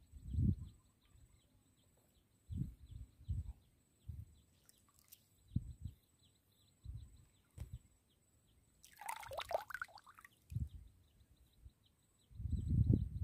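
Low rumbling bumps come and go, and a short bird call sounds about nine seconds in.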